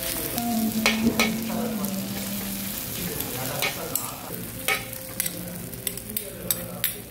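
Food sizzling in a hot pan while it is stirred, with several sharp clicks of a utensil against the pan.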